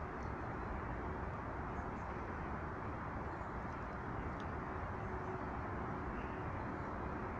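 Steady outdoor background rumble with a faint hum, and a few faint, brief bird chirps.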